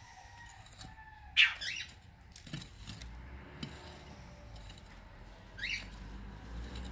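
A small bird chirps twice: one loud, sharp chirp about a second and a half in, and a fainter one near the end.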